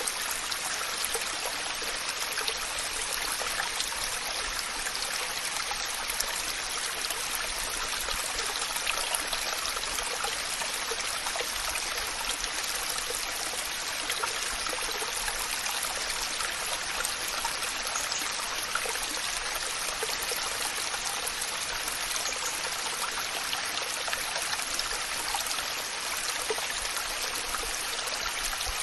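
Waterfall: water rushing and splashing in a steady hiss with no change in level.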